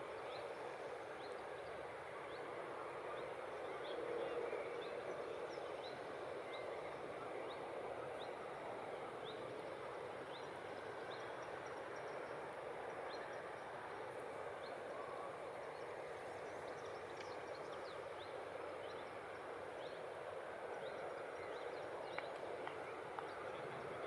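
Short, high, downward-sliding peeps of birds, about one a second, over a steady wash of outdoor background noise.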